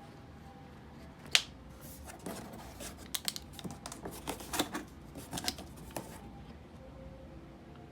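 Scooter packaging being handled and opened: one sharp click about 1.4 s in, then a busy run of clicks, snaps and crinkles for a few seconds.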